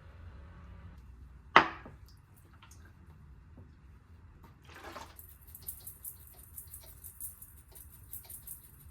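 Kitchen cooking sounds: one sharp clack about a second and a half in, then a brief rush and, from about halfway, a steady high hiss with many small ticks and drips, like water running or food starting to sizzle.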